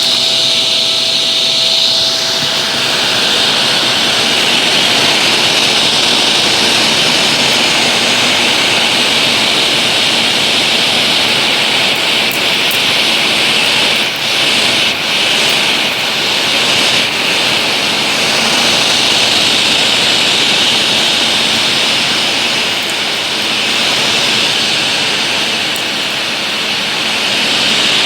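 Shark Professional Powered Lift-Away DLX (NV586) vacuum cleaner running steadily, a loud even rush of air with a strong hiss, briefly dipping twice about halfway through.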